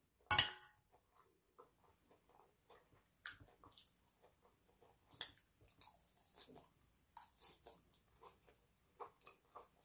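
A knife and fork clatter briefly on a plate just after the start, then faint close-up chewing of salad and chicken, with small scattered wet clicks from the mouth.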